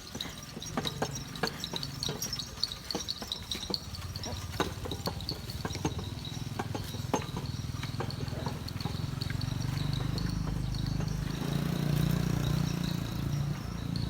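A motor engine running and growing louder toward the end, as if drawing near, over scattered sharp clicks and snaps.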